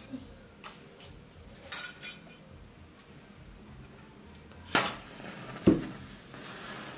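A few light clinks, then two sharp knocks about five seconds in, as a metal pan and small things in it are handled.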